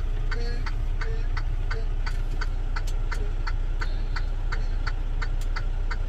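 Turn-signal flasher clicking about three times a second inside a semi truck's cab, over the steady low rumble of the idling truck.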